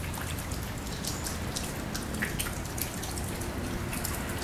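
Steady rainfall, with many individual drops ticking sharply close by over an even hiss of rain.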